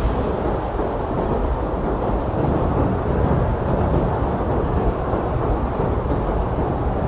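Blizzard wind blowing hard and steadily, a deep, rumbling rush of gusting air.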